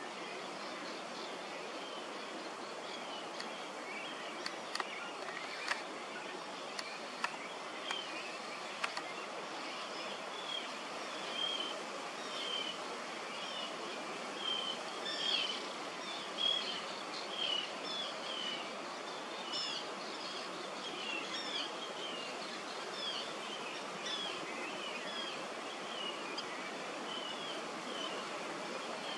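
Wetland ambience: a steady background hiss with a few sharp clicks about four to nine seconds in, then a bird calling in short, quick chirps over and over through the rest.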